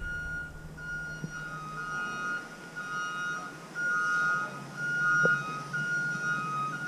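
Emergency vehicle's electronic hi-lo warning tone, two steady pitches alternating high and low about every half second, over a steady low engine hum.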